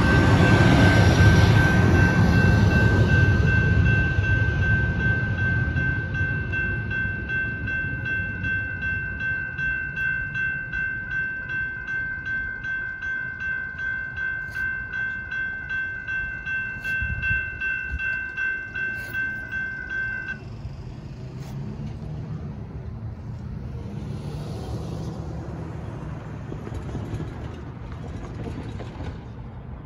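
An Amtrak San Joaquin train hauled by Siemens SC-44 Charger locomotives passes and rumbles away. The crossing warning bell rings in a steady pulse and cuts off suddenly about two-thirds through as the gates finish rising. A road vehicle runs near the end.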